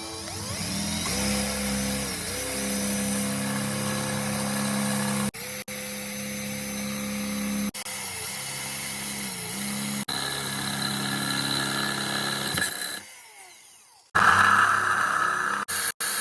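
Electric power tool running at a steady pitch that sags briefly twice as it bites under load, heard in several short clips with abrupt cuts between them; near the end a louder, harsher stretch of the same kind of work.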